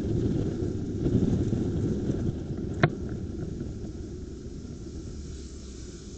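Wind buffeting and low road rumble on a motorcycle dashcam's microphone while riding, slowly dying down, with one sharp click about three seconds in.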